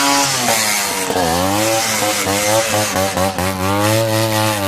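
Two-stroke Yamaha RX motorcycle engine revving: the pitch drops briefly about a second in, then climbs again and holds high.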